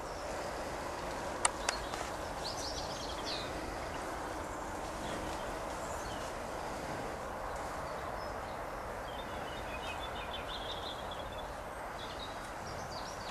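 Small birds chirping now and then over a steady outdoor background hiss, with two sharp clicks in quick succession about a second and a half in.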